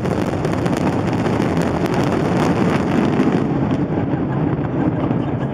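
Fireworks display heard with wind buffeting the microphone: a steady loud rumble with dense rapid crackling through the first few seconds, thinning out after that.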